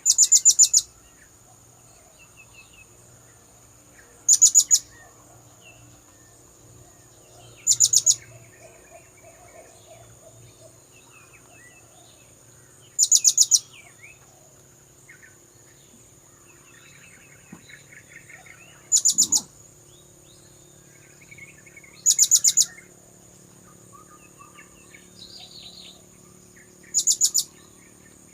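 Blue-crowned hanging parrot (serindit) lure calls: seven short, shrill, rapidly pulsed trills, each under a second, repeated every few seconds. A steady high whine and faint chirps from other birds run underneath.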